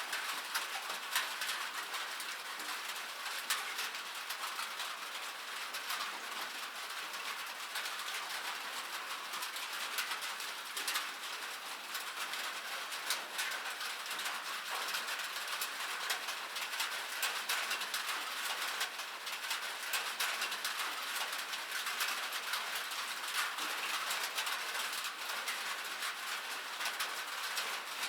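Steady rain falling on metal: a dense, even patter of drops ticking on the metal surface, with the odd louder drop standing out.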